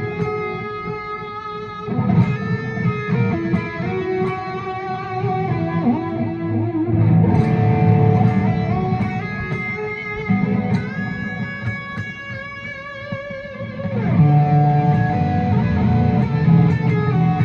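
Electric guitar with a chorus effect playing melodic phrases in D Lydian. Notes shift and ring over one another, and some held notes waver in pitch.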